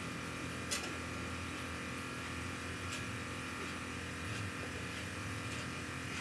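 Steady mechanical hum with a few faint light clicks.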